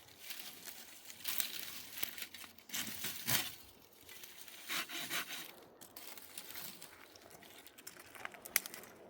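Irregular crinkling and rustling handling noise, in several bursts with scattered sharp clicks.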